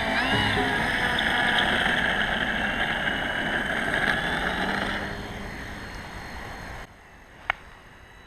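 Electric brushless motor and four-bladed propeller of an RC model Cessna 182 running at high throttle, a steady high whine that fades away about five seconds in. Near seven seconds the sound drops off abruptly, followed by a single sharp click.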